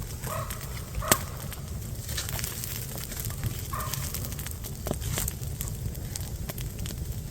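Campfire burning, with scattered sharp crackles and pops over a steady low rumble; the loudest pop comes about a second in.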